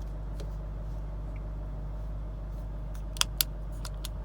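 Two sharp clicks of cabin switches or buttons being pressed, about three seconds in, over a steady low hum.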